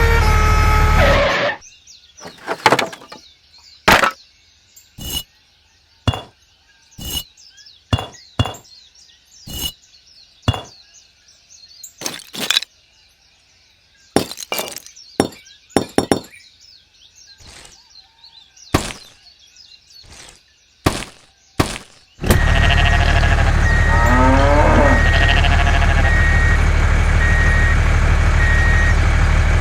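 Small mini bricks knocking and cracking as they strike and break: about twenty seconds of sharp, irregular clacks, one or two a second. A loud steady noise runs briefly at the start and again from about 22 seconds in.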